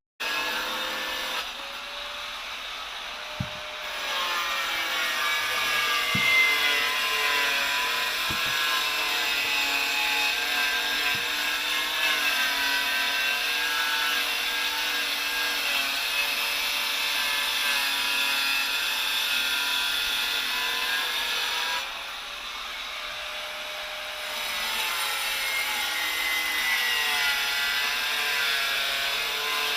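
Hand-held electric power cutter running under load, cutting masonry. Its whine sags and recovers in pitch as it bites, with a lighter stretch about three-quarters of the way through.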